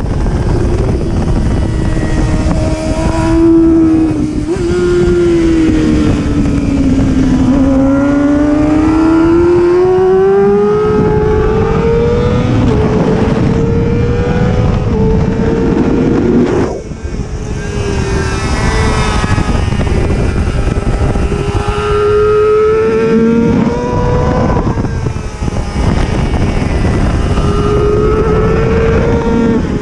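Racing superbike engine at full race pace, revs climbing through the gears and dropping back into corners in repeated sweeps. The throttle is briefly closed about 17 seconds in. A steady rush of wind runs underneath.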